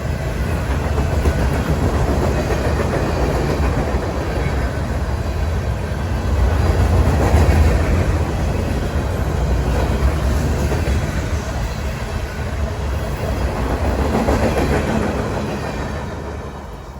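A train passing close by: a steady heavy rumble of wheels on rail with some clickety-clack, loudest around the middle and dying away near the end as it recedes.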